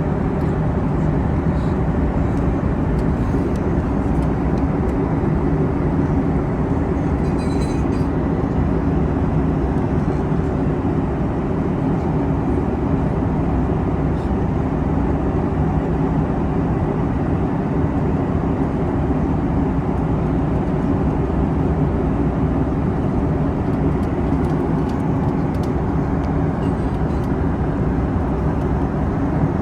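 Steady cabin noise of a Boeing 737 MAX airliner in flight: the even rush of airflow over the fuselage with the low drone of its CFM LEAP-1B engines, unchanging throughout.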